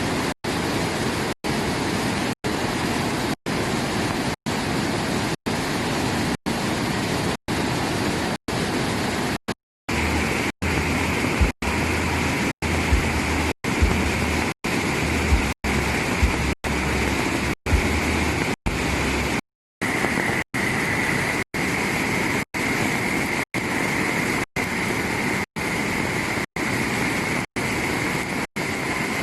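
Flash-flood water rushing loudly down a waterfall as a steady roar. The sound drops out for an instant about every two thirds of a second, and a low rumble with a few knocks runs through the middle stretch.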